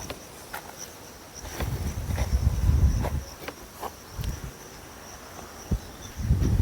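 Insects, crickets or similar, keeping up a steady high, thin trill. Low rumbling bumps and a few sharp taps come over it, loudest about two to three seconds in and again near the end.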